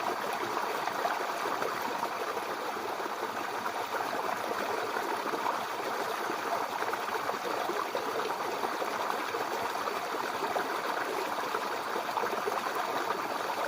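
Babbling brook: water running steadily, with no let-up.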